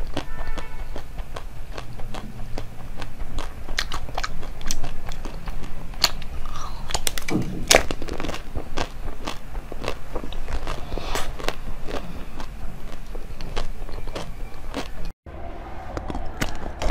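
Close-miked biting, cracking and chewing of a hard frozen chocolate sweet, a steady run of sharp crunches with wet chewing between them. About 15 seconds in the sound cuts out for a moment, then the chewing goes on.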